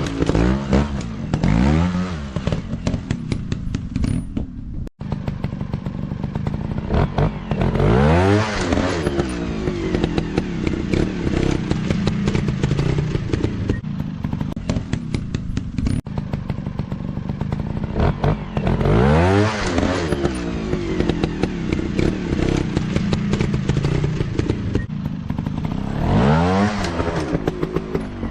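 Dirt bike engine running and revving, its pitch climbing and falling with repeated bursts of throttle. The strongest revs come at the start, about eight seconds in, around nineteen seconds in and near the end.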